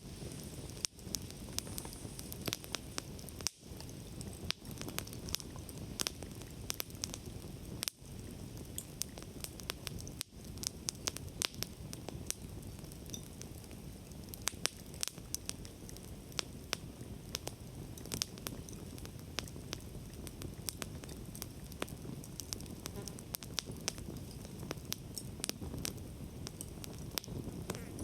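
Wood campfire burning, with frequent sharp crackles and pops over a steady low rush of flame. The sound dips very briefly a few times.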